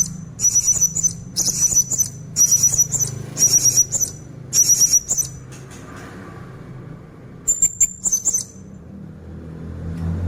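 Blue-crowned hanging parrot (serindit) calling in short, very high-pitched, rapid chattering bursts about once a second. The bursts pause for about two seconds, then a few more come near the end.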